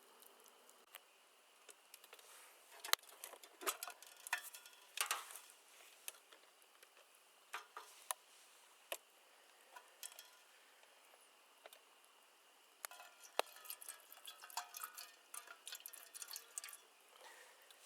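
Scattered light clicks, taps and small clatter of objects being handled, in two busier spells, one about 2 to 5 seconds in and another from about 13 seconds in, over a faint steady hiss.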